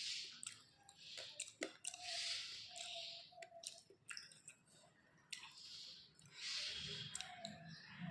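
Close-miked chewing of a rice meal: wet, squishy mouth sounds with many sharp lip and tongue clicks, in uneven bouts with a short lull about halfway through.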